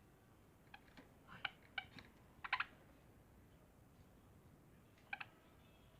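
A pet parrot making short, sharp creaky clicks and squeaks: a quick run of them about a second in and a pair near the end. The bird is agitated, warding someone off its territory.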